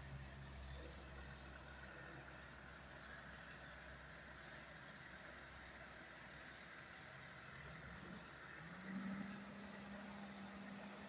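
Faint motor-vehicle engine running, with a low rumble that fades early and a steady low hum that comes in near the end.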